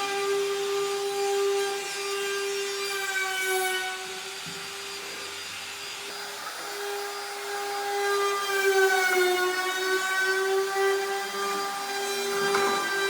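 Electric power tool running with a steady high-pitched whine while cutting wood; its pitch sags briefly about nine seconds in, then recovers.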